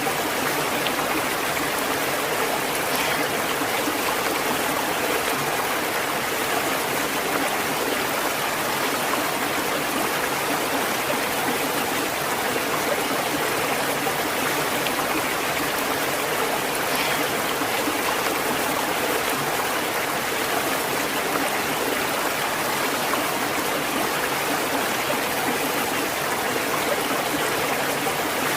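Flowing water of a natural stream, a steady, unchanging rush with no breaks.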